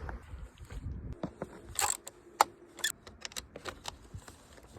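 Scattered metallic clicks and clinks of hand tools and metal parts being handled, some ringing briefly, as during a car battery change.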